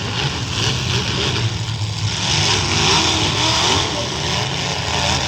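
Demolition derby trucks' engines running and revving hard together, their pitch wavering up and down.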